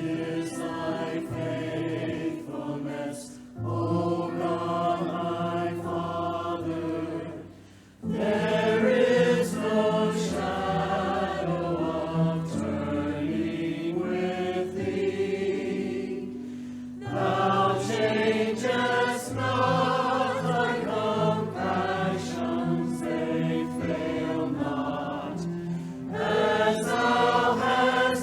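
A group of voices singing a church song together in long held phrases over a steady low accompaniment, breaking briefly between lines about 3.5 and 8 seconds in.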